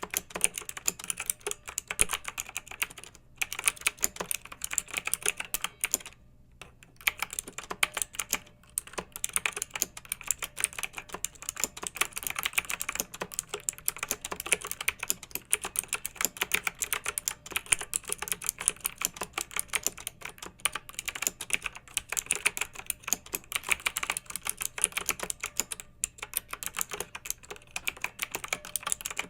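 Clicky mechanical keyboard being typed on quickly and steadily, with a few short pauses between bursts of keystrokes.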